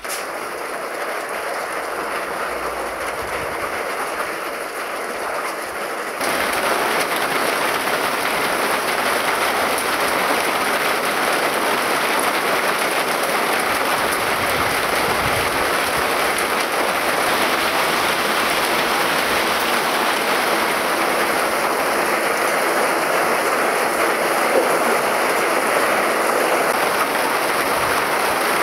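Heavy rain falling steadily on roofs and a gutter, a dense even patter. It turns heavier and louder about six seconds in, then holds as a downpour.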